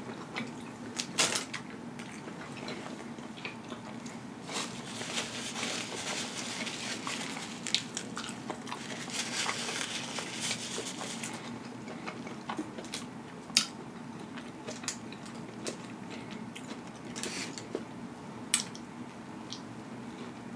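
Close-miked chewing and biting of an Impossible Whopper burger: soft, wet mouth sounds with scattered sharp clicks, busiest from about five to eleven seconds in.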